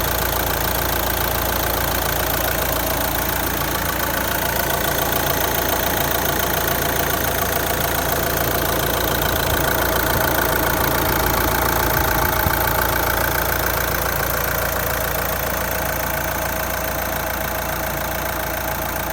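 Nissan Qashqai J11's 1.6 dCi 130 (Renault R9M) four-cylinder diesel engine running steadily, its injectors freshly cleaned, with the engine noise the owner is recording. It gets a little louder for a few seconds in the middle.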